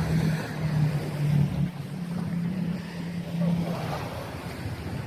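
An engine droning steadily with a slightly wavering pitch, fading out about four seconds in, over wind on the microphone and the wash of surf.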